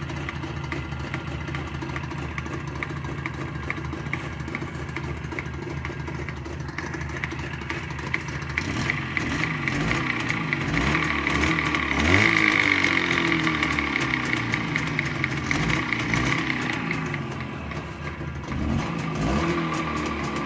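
ČZ 472.6 motorcycle's two-stroke engine running with a regular, sharp metallic knock that keeps time with the engine. It is revved up about ten seconds in, drops back, then picks up again near the end. The owner thinks the knock comes from the gearbox; it is there cold or hot, in neutral or in gear, although the crank and cylinder were found sound on teardown.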